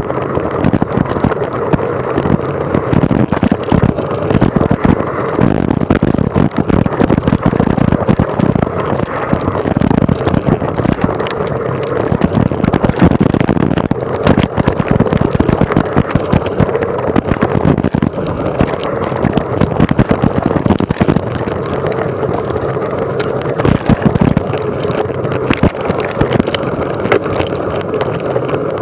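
Mountain bike ridden fast over rough trail, heard from a camera on the bike: a steady rumble with constant dense rattling and knocking, and wind buffeting the microphone.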